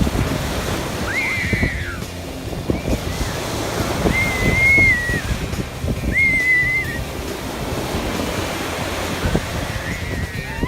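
Sea waves washing in, with wind buffeting the microphone. Several short, high whistled calls rise and fall over the surf, each lasting about a second.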